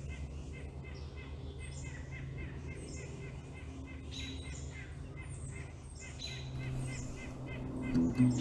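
Small birds chirping and calling over and over, short falling notes about once a second, over a low steady hum.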